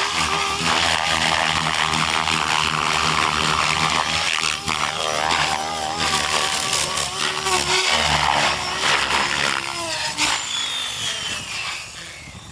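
Electric RC helicopter, a 700-size Soxos 700 with an Xnova motor, flying: a motor whine and rotor sound whose pitch rises and falls again and again, fading over the last second or two.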